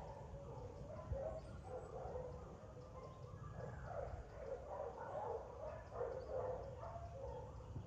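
Dogs at a boarding kennels barking in repeated, overlapping bursts.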